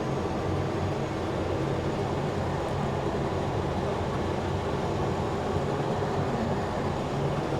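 Cummins diesel engine of a self-propelled sprayer running steadily, heard from inside the cab as an even low drone.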